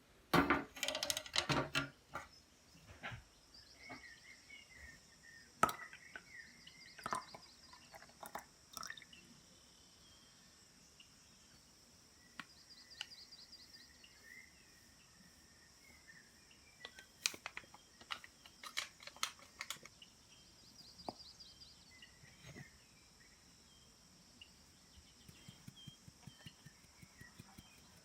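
Woodland evening ambience: insects keep up a steady high-pitched drone with pulsing trills, birds call now and then, and scattered clicks and knocks of handled objects break in, with a burst of clatter at the start.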